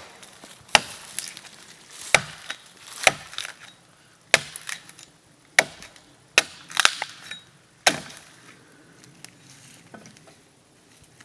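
A blade chopping into a dry, resin-soaked fallen pine trunk to split off a small chip: about ten sharp strikes at uneven intervals, which stop about eight seconds in.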